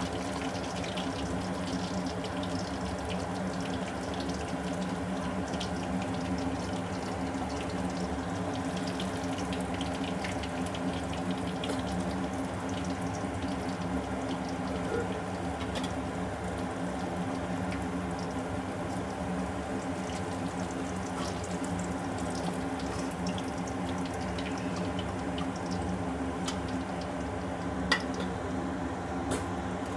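Chicken pakoda pieces deep-frying in hot oil in a kadai: a steady sizzle at an even level, over a steady low hum.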